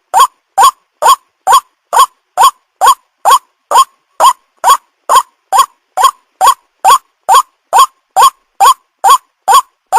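White-breasted waterhen call played as a looped bird-trapping lure recording: the same short, upswept note repeated very evenly, a little more than twice a second.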